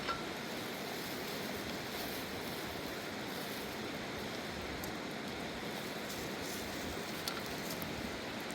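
Steady rushing of a river, an even wash of water noise, with a couple of faint clicks about five and seven seconds in.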